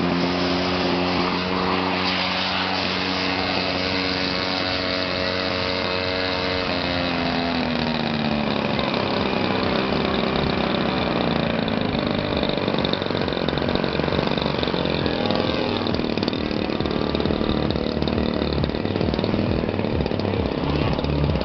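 Small electric motor and propeller of a remote-control foam aeroplane running with a steady hum, winding down about seven seconds in, followed by a rushing noise.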